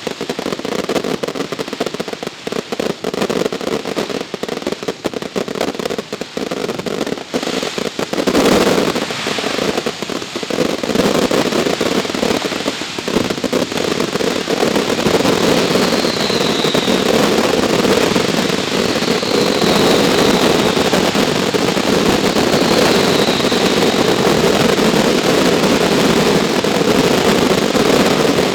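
Professional fireworks display: a run of separate bangs, then from about eight seconds in a dense, continuous barrage of many shells bursting and crackling at once. Three faint, short whistles falling in pitch come through in the second half.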